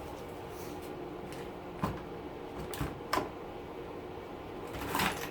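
A few light clicks and knocks from parts of a dishwasher being handled during a teardown, over a steady hum.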